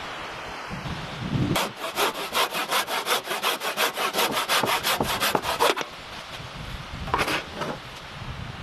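Hand saw cutting through wood in quick back-and-forth strokes, about five a second, for about four seconds. It stops, then gives one more short stroke about seven seconds in.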